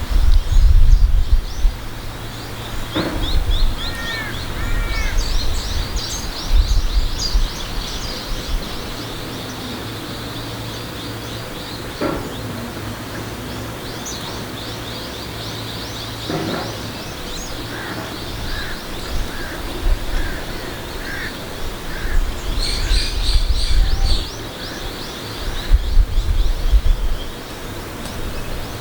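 Outdoor bird sounds with a crow, a large-billed crow, cawing about three times. Rapid high chirping of small birds runs underneath, with wind rumble on the microphone.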